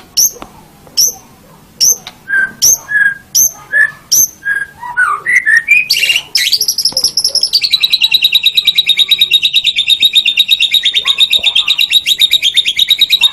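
White-rumped shama (murai batu) singing loudly. It gives a string of sharp, separate whistled notes about two a second, then a quick rising run. About six seconds in it breaks into a long, very fast, even trill.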